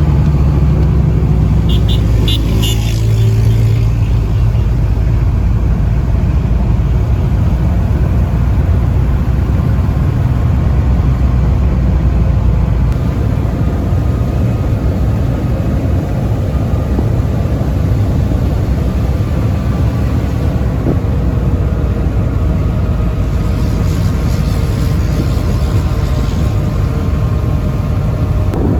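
Car driving, with steady engine and road noise. A few short high chirps sound about two seconds in.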